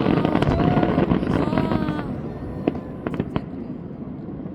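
Aerial fireworks bursting in a dense crackle for about two seconds, then thinning to a few scattered sharp cracks as the display dies away.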